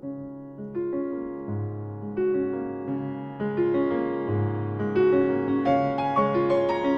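Background piano music: a new phrase of single notes and chords starts at the opening, climbing higher in pitch and growing louder.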